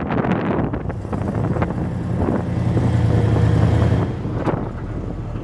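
Monster truck engine running under load, heard from aboard the ride, swelling around the middle and easing off near the end, with wind buffeting the microphone.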